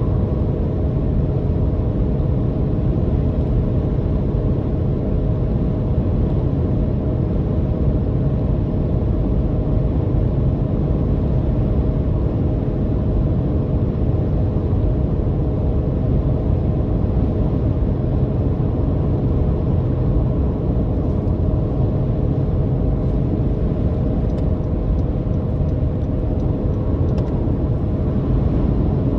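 Car's motor droning steadily over a low road rumble while driving, with an even hum and no revving.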